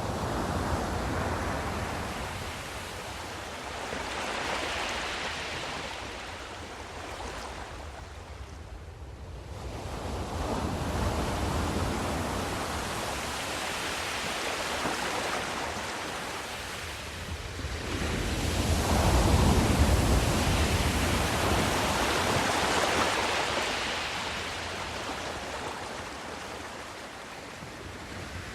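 Sea waves washing in slow swells, the noise rising and falling every several seconds, with the biggest swell about two-thirds of the way through.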